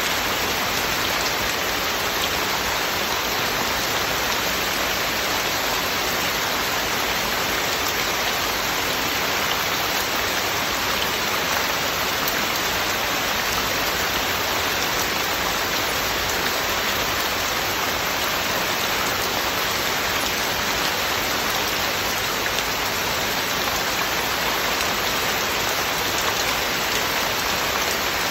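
Heavy, steady rain falling and pattering on surfaces, an even rushing hiss with no thunder.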